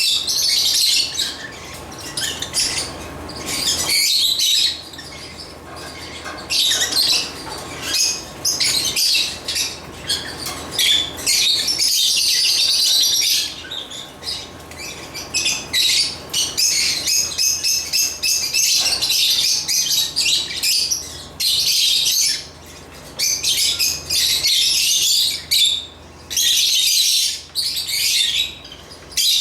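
African lovebirds (Agapornis) chirping and squawking: a dense, shrill run of high-pitched calls with only brief pauses.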